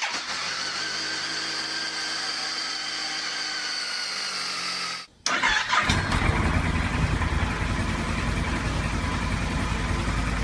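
Two motorcycle engine recordings, one after the other. The first runs steadily at an even pitch. After a short break at about five seconds, a second, louder and rougher-sounding engine runs, cutting off at the end.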